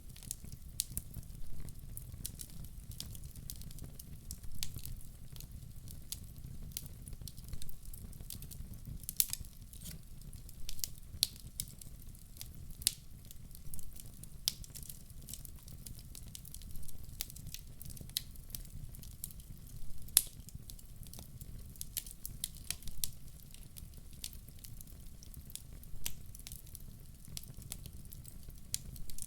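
Wood fire burning in a fireplace: irregular sharp crackles and pops over a steady low rumble of the flames, with one louder pop about twenty seconds in.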